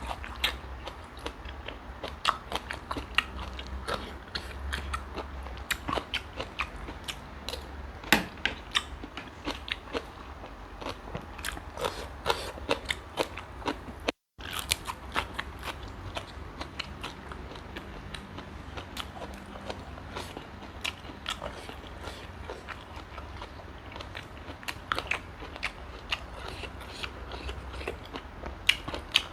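A person eating close to the microphone: chewing and crunching with many irregular sharp clicks and crackles. The sound drops out briefly about halfway through.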